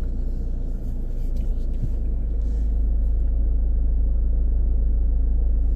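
Car driving, a steady low rumble of engine and road noise; the faint higher tyre hiss drops away about three seconds in.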